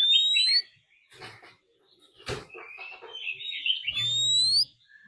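Oriental magpie-robin singing its aggressive territorial song: a loud rising whistle at the start, warbled notes, and another rising whistle near the end, with a sharp click about two seconds in.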